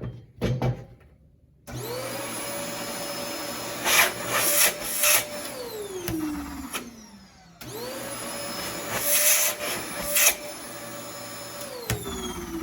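Repaired garage utility vac (shop vac) motor switched on twice. Each time it spins up quickly to a steady whine, runs for a few seconds, then is switched off and winds down with a falling pitch. The freshly repaired motor runs smoothly and sounds much better.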